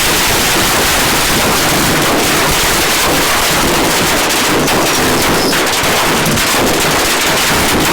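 Fireworks going off in a loud, continuous crackle, a dense rattle of many tiny pops with no single big bang standing out.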